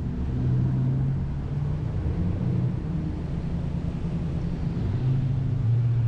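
BMW F800GT motorcycle's parallel-twin engine running steadily with a low hum.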